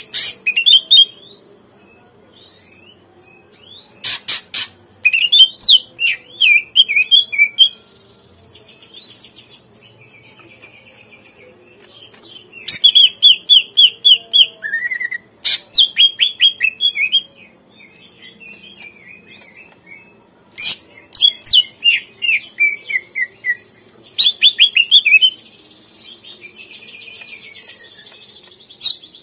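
A cucak ijo (leafbird) singing loud bursts of rapid, sharp chirping notes lasting a couple of seconds each, with pauses of fainter twittering between them.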